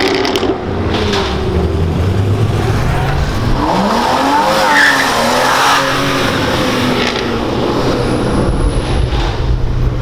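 Sports car engines running with a steady low rumble; about three and a half seconds in one engine's pitch rises and falls as it is revved or driven off, with a brief high squeal near the middle.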